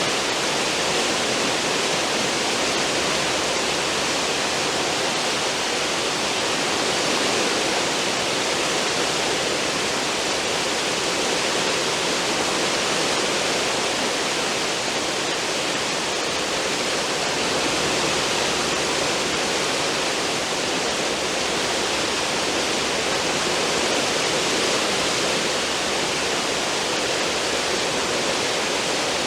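Cruise ship's wake: a steady, unbroken rush of churning water stirred up astern of the ship.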